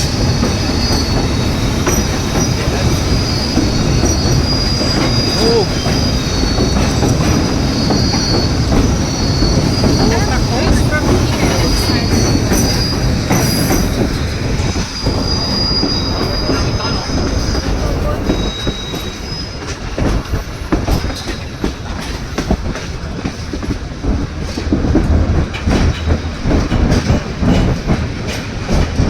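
White Pass & Yukon Route narrow-gauge passenger train running on its rails, a steady rumble of the cars with high-pitched wheel squeal coming and going through the first half or so, as on a curve. Later the squeal fades and the running noise turns quieter and more rhythmic.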